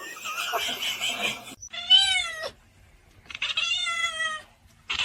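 A domestic cat meowing twice: a short call that rises and falls about two seconds in, then a longer drawn-out meow, after a scratchy noise in the first second and a half.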